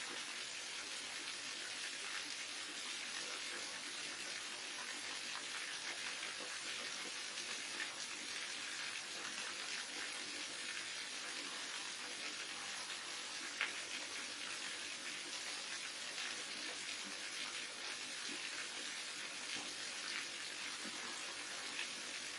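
Waterfall: a steady rush of falling water, with an occasional brief, louder splash, one just past the middle.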